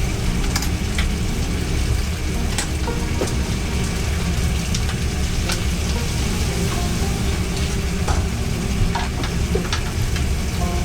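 Food frying in a food-truck kitchen: a steady sizzling hiss with scattered clicks and clinks over a loud, steady low rumble.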